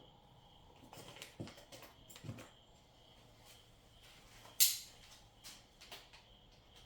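Scattered handling noises: a few soft knocks and rustles, with one sharp click about four and a half seconds in.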